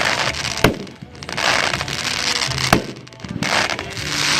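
Mad Ox Redneck Revenge 500-gram consumer fireworks cake firing: sharp reports about two seconds apart, with a dense hissing spray of sound after each. Background music runs underneath.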